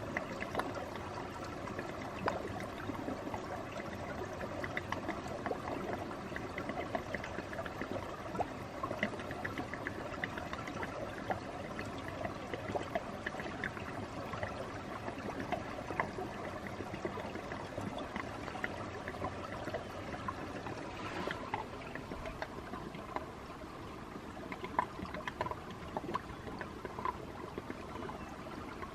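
Water trickling and running steadily, like a small stream, with a busy, even babble.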